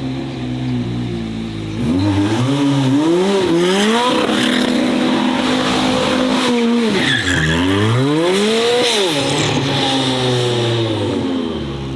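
Race car engine with tyres squealing. It is loud and steady, then gets louder about two seconds in, with the revs rising and falling several times. Typical of a car drifting or doing donuts.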